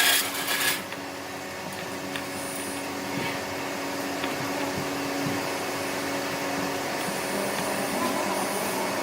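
Workshop electric motor running steadily with a hum and an even airy hiss, after a brief louder hiss right at the start.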